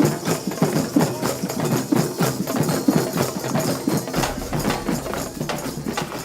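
A drum circle of beginners playing many hand percussion instruments together, drums with tambourine- and wood-block-like strikes in a steady rhythm.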